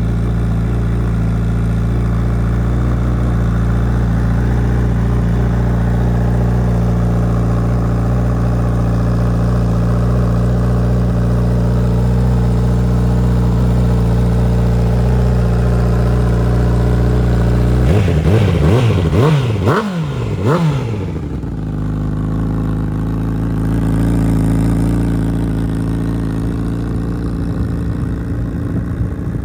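Honda CBR1000RR Fireblade's inline-four engine, breathing through a Racefit aftermarket exhaust, idling steadily. About eighteen seconds in, a few quick throttle blips send the revs up and down before it settles back to idle.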